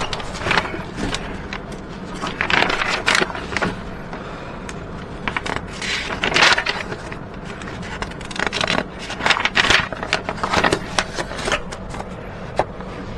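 Flat-pack wardrobe parts and packaging being rummaged through: irregular scraping and clattering, with small hardware clinking now and then.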